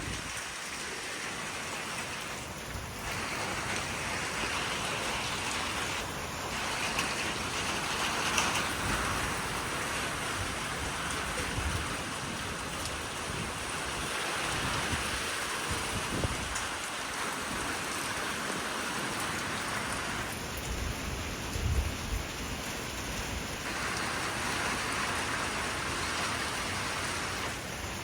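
Steady heavy rain and gusting wind in a thunderstorm, with a few brief low rumbles about 11, 16 and 21 seconds in.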